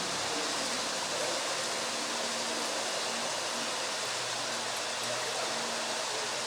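Flowing water rushing steadily, as from a stream or river in a valley.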